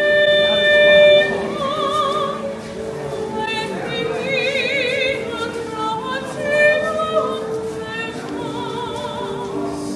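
Operatic singing: a voice with wide vibrato holding long notes, with other pitched parts sounding underneath.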